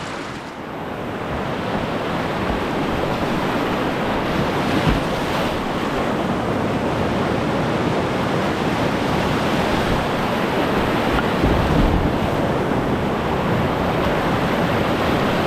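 Whitewater rushing in a river running at low water, a steady dense rush that grows louder over the first couple of seconds.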